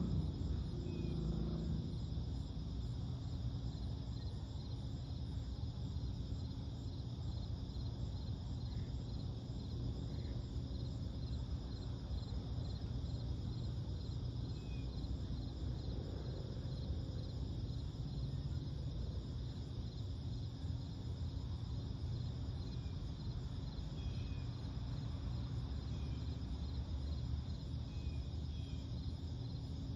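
A steady chorus of night insects chirping in a fast, even pulse, over a low steady rumble. A low engine hum fades out in the first second or two, and a few short bird chirps come in the second half.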